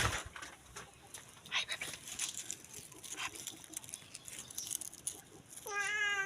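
Scattered light rustling and crinkling. Near the end comes one drawn-out pet animal call that holds its pitch and then drops as it ends.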